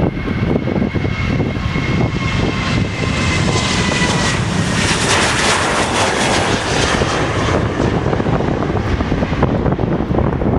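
Jet airliner passing by: its engine whine glides slightly down in pitch while the roar builds, peaks about five seconds in, then fades and dulls.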